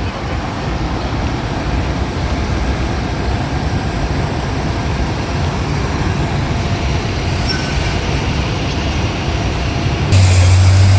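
Street traffic: a steady rumble of passing vehicles. Near the end a louder vehicle with a low engine drone comes in suddenly.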